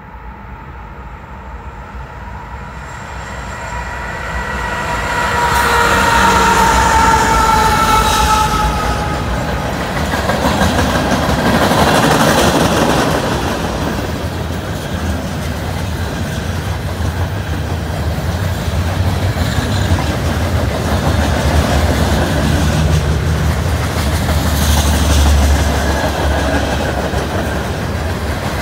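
CN freight train passing: the locomotive horn sounds a chord of several tones for several seconds as the train comes in, sagging slightly in pitch as it goes by. The horn gives way to the steady rumble and clickety-clack of freight cars rolling past.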